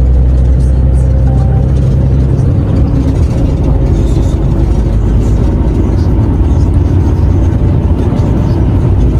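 Renault T480 truck's six-cylinder diesel engine running on the road, with a steady low drone whose note changes about two and a half seconds in.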